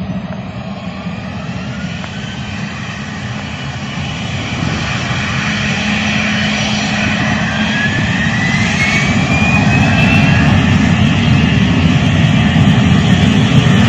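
Airliner engines running and growing steadily louder as the aircraft approaches, with a whine rising in pitch about halfway through.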